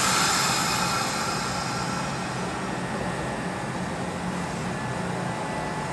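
Kintetsu 2050 series electric train: a sudden burst of air hiss at the start as the brakes release. It fades within about a second into the train's steady low hum as it begins to pull away.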